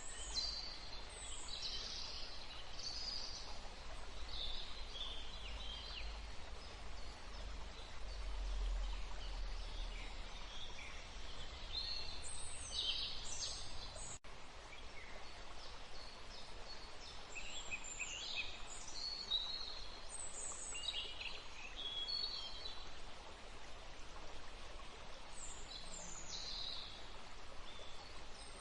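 Small birds calling in woodland: clusters of short, high chirps and twitters come and go throughout, over a steady background hiss. A low rumble sits under the first half.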